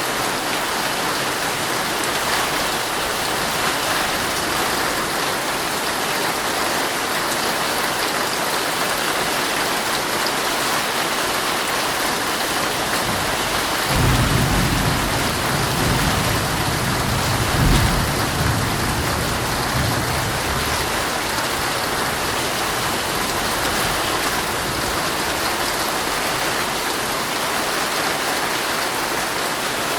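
Heavy rain falling steadily on a tent, heard from inside. About halfway through, a roll of thunder rumbles in suddenly, swells for a few seconds and dies away.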